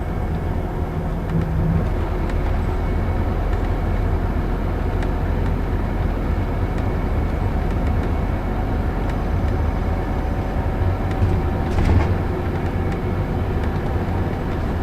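Scania Citywide LE 14.6 tri-axle bus under way, its 320 hp Euro6 diesel engine running with a steady low drone over road noise. A single knock about twelve seconds in.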